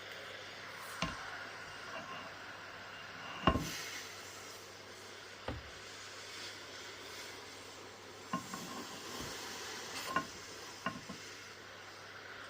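Water hissing steadily onto the leaf litter and soil substrate of a terrarium as it is soaked down, with half a dozen sharp knocks and clicks from handling along the way.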